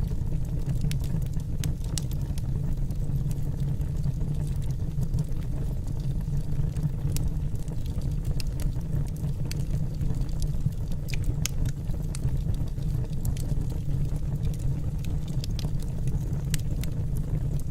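Wood fire burning in a fireplace: a steady low rumble from the flames, with scattered sharp crackles and pops from the burning logs.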